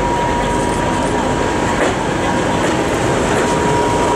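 Russian Railways diesel locomotive hauling a passenger train, rolling into the station past the platform. Its engine and wheels make a steady, loud rumble.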